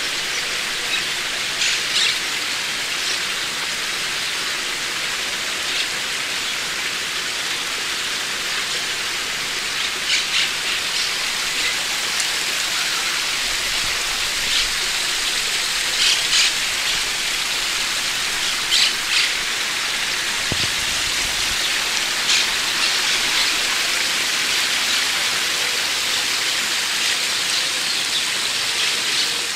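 Small birds chirping briefly now and then over a steady hiss.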